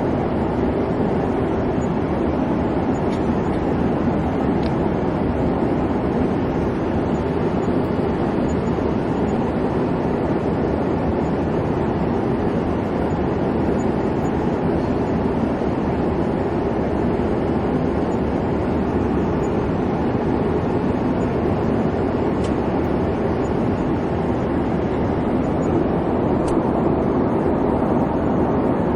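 Steady airliner cabin noise in flight: an even rumbling hum of engines and air rushing past the fuselage, unchanging throughout.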